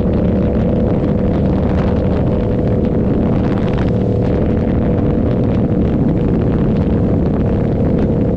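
Yamaha R7's 689 cc parallel-twin engine running through an SC Project aftermarket exhaust, loud and holding steady revs.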